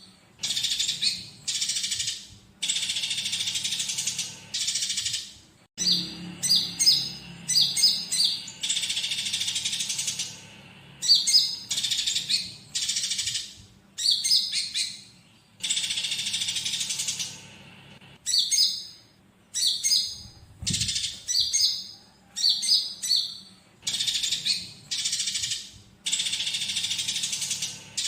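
Bar-winged prinia (konin) song mixed with the squabbling chatter of Eurasian tree sparrows, as a looped bird-training track: clusters of short, high, sharp chirps alternate with dense buzzing trills of about two seconds, over and over.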